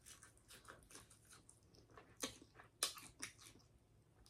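Quiet close-miked chewing of shrimp, with soft wet mouth clicks and small crunches, a few louder ones about two and three seconds in.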